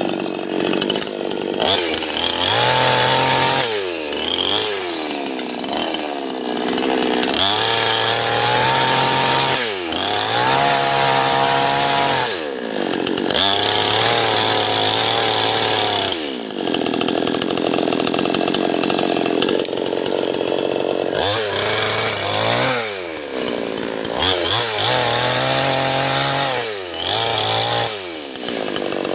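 Two-stroke chainsaw revved again and again: its engine rises to a high, steady pitch for a few seconds at a time, then falls back. In between it runs under load while cutting wood.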